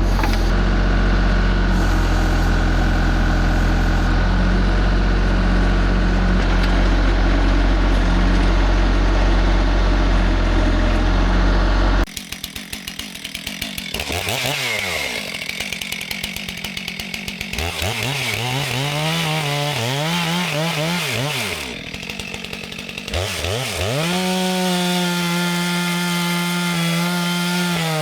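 A TYM compact tractor's diesel engine runs steadily for about twelve seconds. It then gives way abruptly to a chainsaw being revved up and down several times, idling between revs, and held at high speed near the end.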